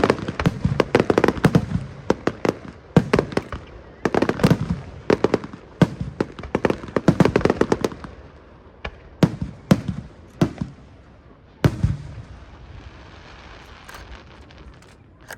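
Aerial fireworks shells bursting: rapid bangs and crackling, dense for about eight seconds, then thinning to a few separate booms.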